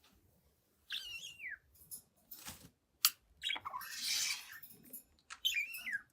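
Young budgerigar chirping and chattering: quick chirps sweeping down in pitch about a second in and again near the end, with a sharp click and a scratchy, noisy burst of chatter between them.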